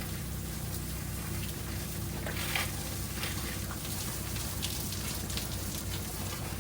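Water spray spattering on a surface over the steady hum of a pump motor, as in soft-washing a house.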